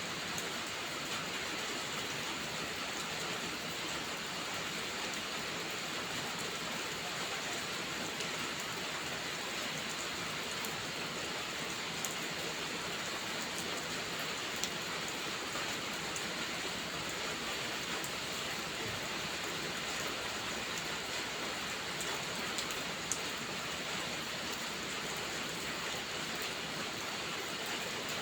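Steady rainfall, an even hiss of rain on surfaces, with a few faint isolated ticks.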